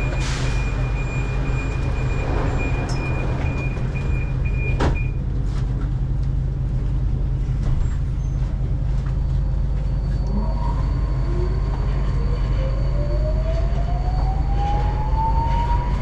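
Metro train interior as the train pulls away: a steady low running rumble, and from about ten seconds in an electric traction-motor whine rising steadily in pitch as the train accelerates. A steady high tone sounds for the first few seconds, with a sharp click about five seconds in.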